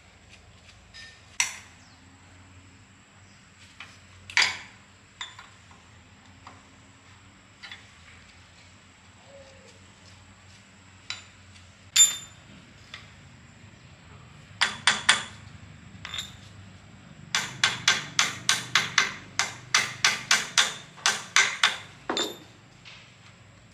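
Hammer blows during engine repair work: scattered single strikes, then a quick run of about twenty blows at roughly four a second near the end.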